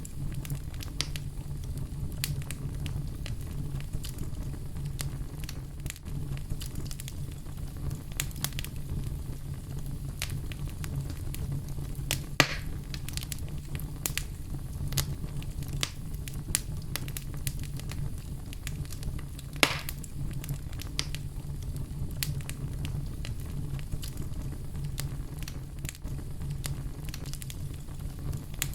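Wood fire burning in a fireplace: a steady low rumble of the flames with frequent crackles, and sharp pops about twelve seconds in and again near twenty seconds.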